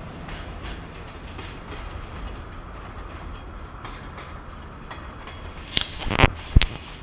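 Container freight train wagons rolling past on the rails: a steady rumble with light wheel clicks. About six seconds in come three loud, sharp clanks in quick succession.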